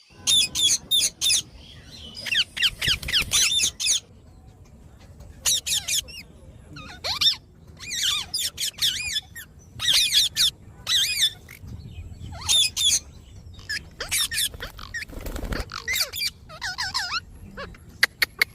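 Parrot calling in bursts of rapid, repeated harsh high calls, each burst lasting about a second, with short pauses between. There is a low thump about three-quarters of the way through.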